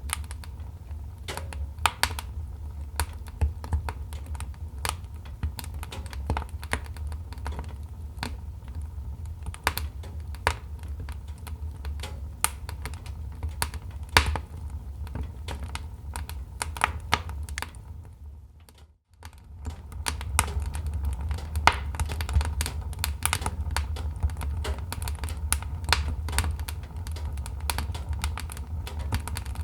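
Wood fire crackling in a fireplace: irregular sharp pops and snaps over a steady low rumble. It fades almost to nothing about two-thirds of the way through, then comes back.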